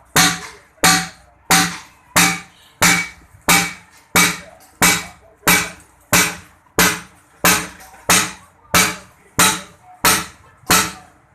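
Steady, even hammer blows on a metal cylinder sleeve being driven into a tractor engine block, about three strikes every two seconds, each with a short metallic ring.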